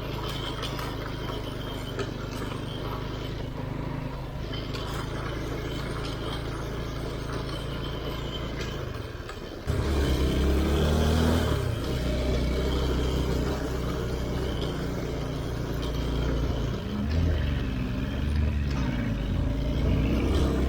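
Motor vehicle engine running at a steady pitch, then suddenly louder about ten seconds in, its revs rising and falling.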